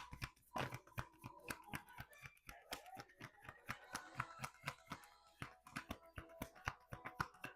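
A deck of oracle cards shuffled and handled: a run of quick, crisp card clicks and slaps, several a second.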